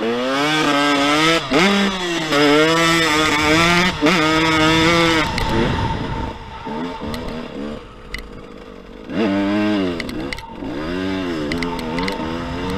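Motocross dirt bike engine accelerating hard, its pitch climbing and dropping back several times as it shifts through the gears. It eases off about halfway through, then revs up and down again near the end.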